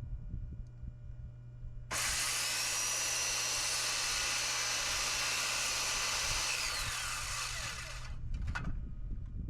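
Electric circular saw starting abruptly about two seconds in and cutting through wood for about six seconds with a steady high whine, then winding down with a falling whine as the trigger is released. A steady low hum runs underneath, and a few light knocks come near the end.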